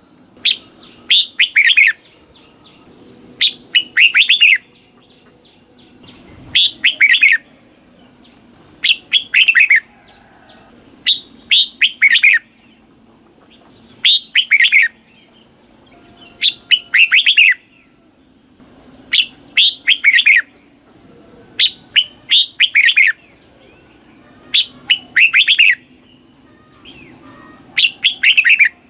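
Red-whiskered bulbul singing: short, loud, clear phrases of quick falling notes, repeated about every two seconds.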